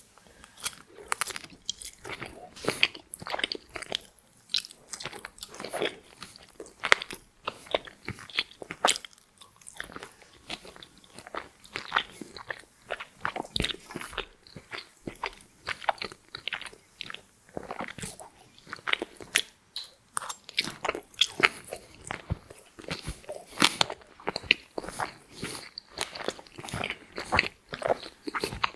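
Close-miked eating: crisp french fries bitten and chewed with repeated sharp crunches, irregular and continuous.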